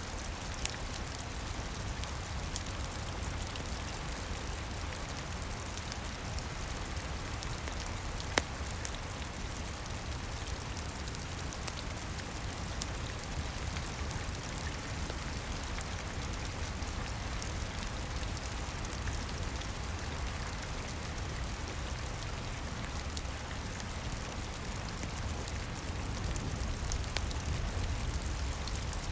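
Steady rain with a low rumble underneath and scattered small crackles from a wood fire, one sharper pop about eight seconds in.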